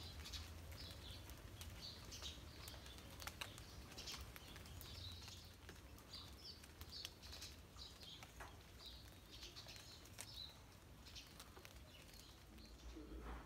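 Faint chirping of small birds: many short, high chirps scattered through, over a low steady rumble.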